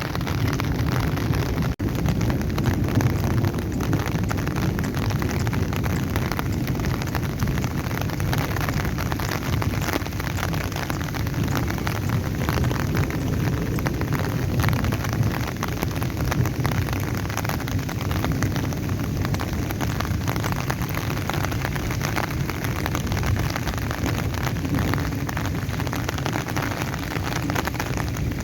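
Heavy, stormy rain falling steadily, with a constant low rumble of wind under the patter. The sound drops out for an instant about two seconds in.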